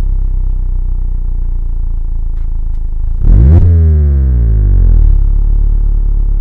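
Mazda MX-5 inline-four engine and exhaust running at low revs. About three seconds in, the revs jump sharply in a quick blip, then fall away gradually.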